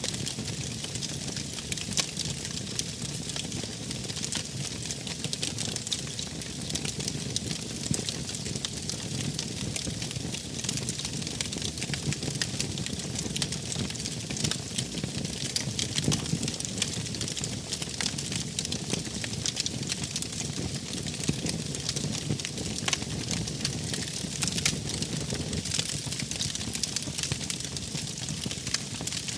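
Wood fire crackling steadily, with many small pops and snaps over the low rush of the flames.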